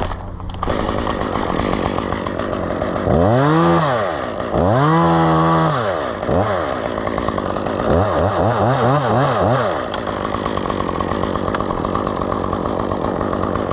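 Chainsaw running at idle and revved up several times: two long revs, a short one, then a couple of seconds of quickly wavering throttle, before it settles back to a steady run.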